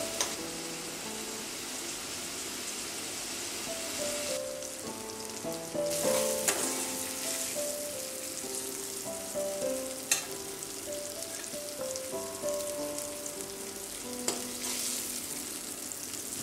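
Chicken pieces sizzling as they fry in oil in a stainless steel pan, stirred, with a few sharp clinks of a metal utensil against the pan. A light background melody plays over it.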